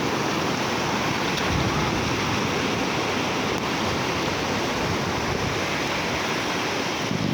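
Ocean surf washing onto a beach, a steady, even rush of noise.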